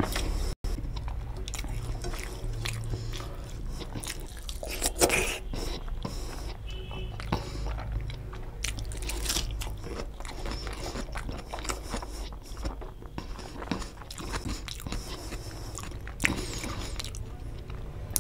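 Close-miked chewing and biting of a mouthful of rice and egg curry, an irregular run of mouth clicks and crunches with a few sharper ones, over a steady low hum.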